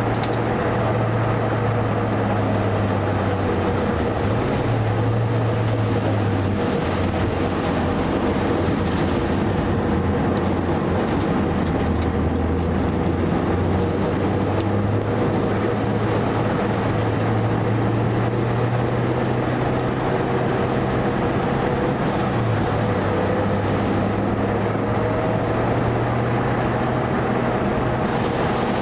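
Mitsubishi Lancer EVO IV's turbocharged four-cylinder engine running hard, heard from inside the cabin on track, its pitch stepping up and down a few times with gear changes and throttle.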